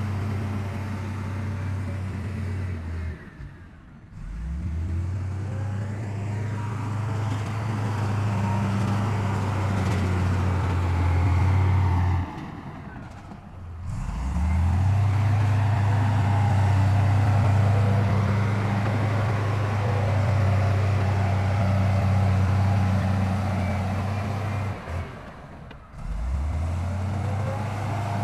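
Heavy diesel construction machinery running with a deep, steady hum. The sound drops away briefly three times, and each time the engine comes back with a rising note, as if revving up again.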